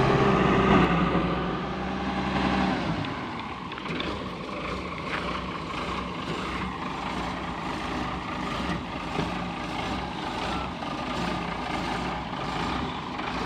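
Diesel engine of a Volvo EW130 wheeled excavator running steadily. It is louder for the first few seconds, then settles to a lower, even level.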